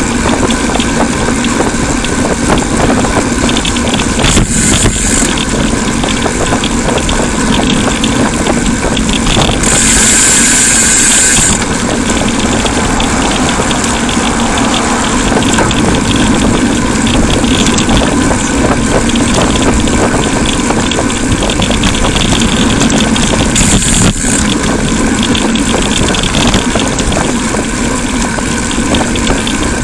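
Steady road and traffic noise heard from a bicycle while riding, with a louder hiss for about two seconds around ten seconds in.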